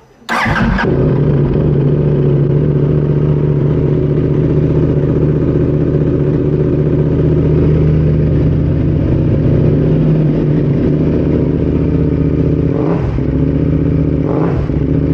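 Kramer GP2-890RR's 890cc 270-degree parallel-twin engine starting up about a quarter second in and settling straight into a steady idle. It has a loud, purposeful beat.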